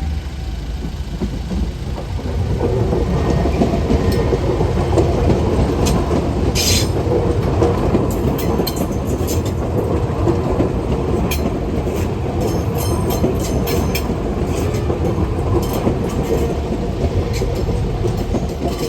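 Commuter train running along the rails: a steady low rumble with wheel noise and scattered sharp clicks.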